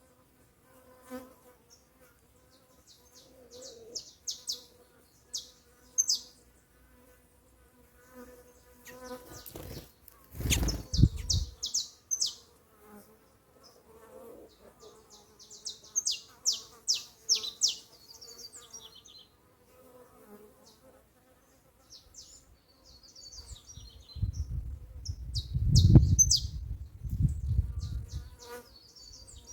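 Bees buzzing steadily around papaya, their hum continuing throughout. Birds give several quick runs of high chirps, and low rumbles come about ten seconds in and again near the end, loudest then.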